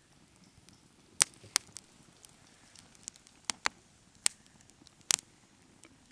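Wood campfire crackling: sharp pops and snaps at irregular intervals over a quiet background.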